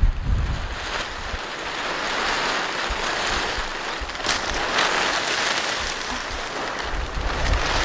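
Gusty wind blowing with a steady hissing rush. Wind buffets the microphone with a low rumble at the start and again near the end.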